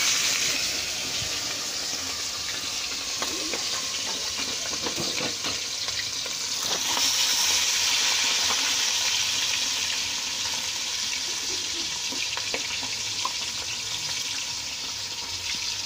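Chicken pieces frying in hot oil in a pan, a loud steady sizzle that swells again about halfway through as the pieces are stirred with a wooden spoon.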